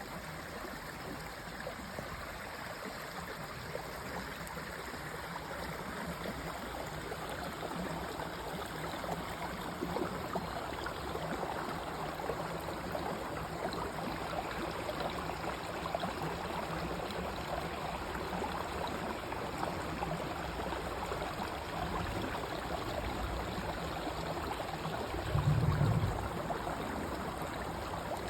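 Stream water flowing and splashing over rocks, a steady rushing and gurgling. Near the end there is a brief, louder low rumble lasting about half a second.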